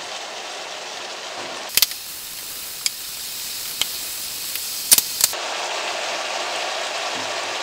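Tempeh stir-fry sizzling steadily in a nonstick skillet as its water, sugar and tamarind water cook down. A few sharp taps come from the spatula as it is stirred, most of them in the middle.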